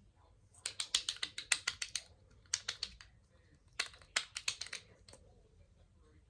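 Rapid light tapping on a hard object in three quick runs, a long run about a second in, a short one in the middle and another near the end.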